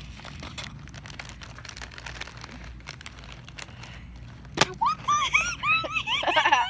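Faint rustling and small clicks from a bag of large pretzels being handled, then a single sharp crack about four and a half seconds in, followed by high-pitched giggling near the end.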